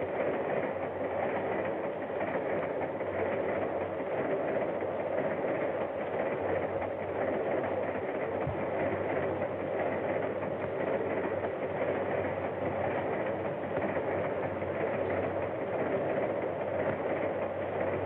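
A train running steadily along the rails: a continuous, even rumble of the wheels and cars. It sounds dull, with no treble, as on an early sound-film track.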